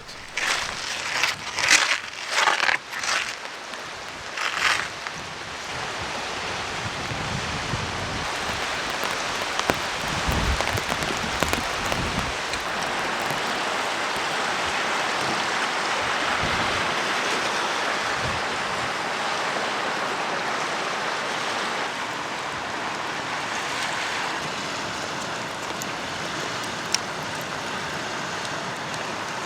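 Steady rain falling, an even hiss throughout, with a few sharp knocks in the first few seconds and some low thumps about ten seconds in.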